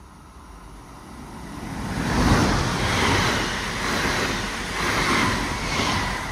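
A train approaching and passing close by: a rushing noise that builds over about two seconds, then stays loud, swelling and easing in uneven surges.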